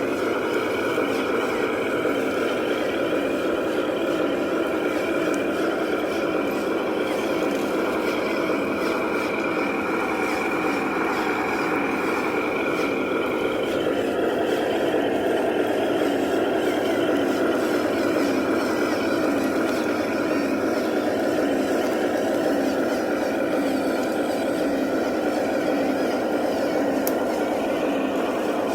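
Remote-control 8x8 model truck driving: a steady mechanical whir with a faint whine that drifts a little in pitch.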